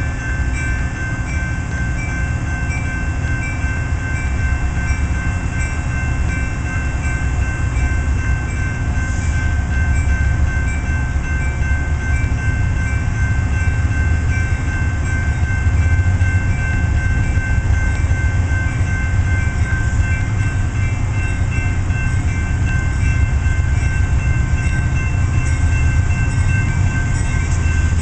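Metra commuter train's diesel locomotive running as the train stands at the platform and then pulls away. The low rumble grows louder about halfway through, with steady high pulsing tones over it.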